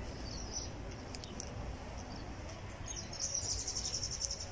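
A small bird chirping: a faint high chirp early on, then a quick, evenly pulsed high trill lasting about a second, starting about three seconds in, over a low outdoor rumble.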